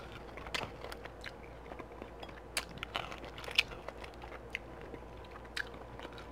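A person chewing barbecue beef ribs with the mouth close to the microphone: irregular wet smacks and clicks of lips and teeth, a few each second.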